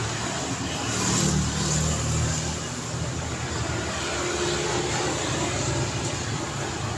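Road traffic passing: vehicles' tyre noise and engine hum, with one vehicle going by close and loudest about one to two seconds in.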